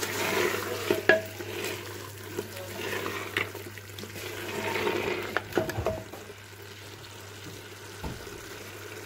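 Beef curry sizzling in a clay pot as a wooden spoon stirs it, with scrapes and a few sharp knocks of the spoon against the pot; the stirring dies down about six seconds in, leaving a quieter sizzle.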